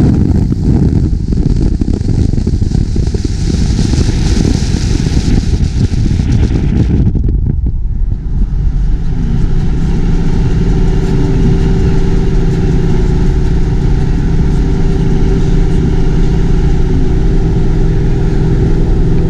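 Loud car engine and exhaust noise, rough and unsteady at first. After a short dip about eight seconds in, it settles into a steady idle.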